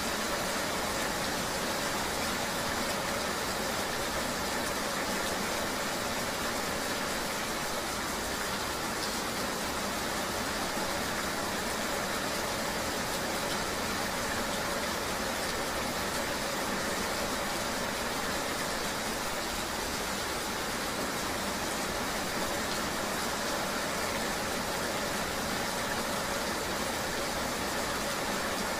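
Steady rain ambience: an even, unbroken hiss with a faint steady hum beneath it.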